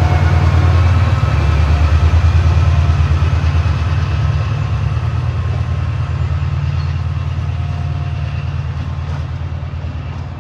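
Train with a heavy, steady low engine rumble, fading slowly as it moves away.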